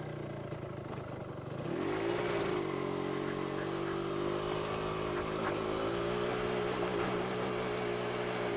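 Yamaha RZX two-stroke motorcycle engine running under way. About two seconds in it picks up, rising in pitch, and then holds a steady note.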